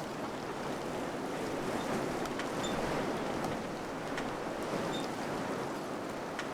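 Steady wind blowing, an even rushing hiss that swells slightly mid-way. A few faint ticks sound over it.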